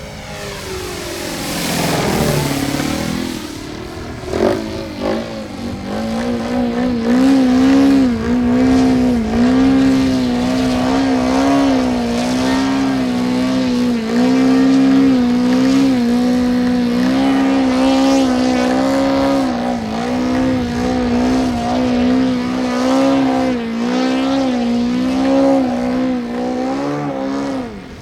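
Engine and propeller of a small profile-fuselage RC airplane (Hokusei Model Ultima Z) in flight. The buzz drops sharply in pitch as the plane passes in the first few seconds, then holds a steady note that wavers up and down in pitch again and again as the plane flies around.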